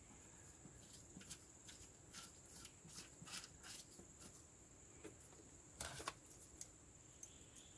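Faint scattered clicks and light taps of hand work on the excavator's cab panels and screws, with the strongest pair of knocks about six seconds in. A faint steady high-pitched whine runs underneath.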